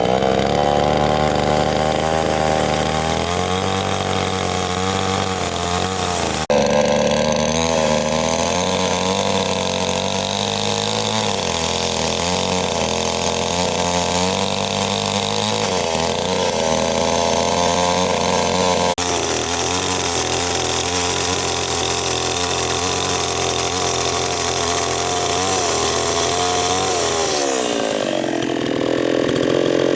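Two-stroke chainsaw running and cutting wood, its engine speed dipping under load and picking up again. The sound changes abruptly about six seconds in and again near nineteen seconds, and the pitch rises near the end.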